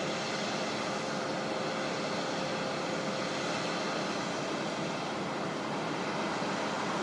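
Steady machinery drone at an even level, a dense hiss with a faint engine tone underneath that fades after the first few seconds.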